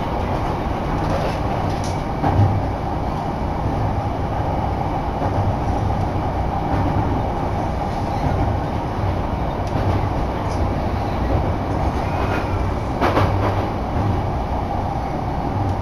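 Electric commuter train running, heard from inside the carriage: a steady rumble of wheels on rail, with a few sharp knocks from the track.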